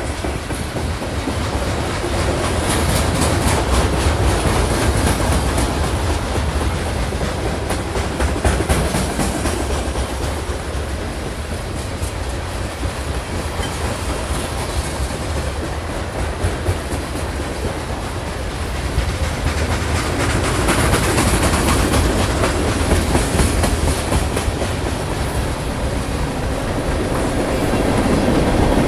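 Freight train cars rolling past close by, first lumber-laden centerbeam flatcars and then boxcars. Steel wheels rumble steadily on the rails with rapid clacking, swelling louder about two-thirds of the way through and again near the end.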